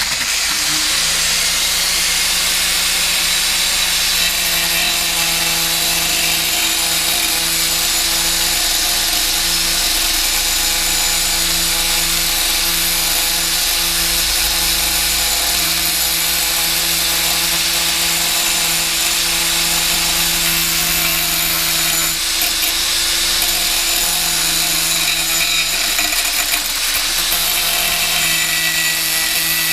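Angle grinder with a thin stainless-steel cutting disc starting up and cutting through thick stainless steel exhaust header pipe. A steady, loud, high grinding hiss rides over the motor's hum, with a brief dip about 22 seconds in.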